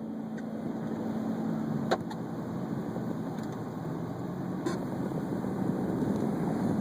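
Steady road and engine noise inside a Ford Escape 4x4 driving a snow-covered road, growing slightly louder, with two faint clicks about 2 and 5 seconds in.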